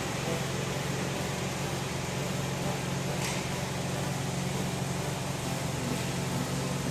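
Car engine running steadily with an even low hum, and a brief hiss about three seconds in.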